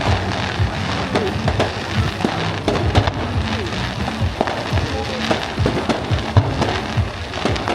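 Fireworks going off in quick succession, a string of sharp bangs and crackles several times a second, over music with a steady low bass line.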